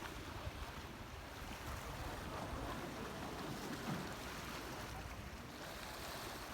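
Steady wind and water noise, with a low rumble underneath.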